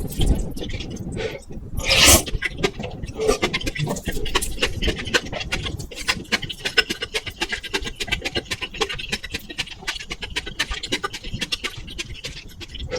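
Close-miked eating sounds under a constant fast crackle of clicks and pops from a faulty microphone or its cable, with a brief louder noise about two seconds in.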